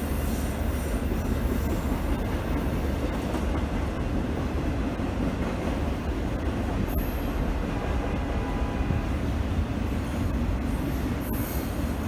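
A train rolling past with a steady heavy rumble of wheels on rail, and short high-pitched wheel squeals about seven seconds in and again near the end.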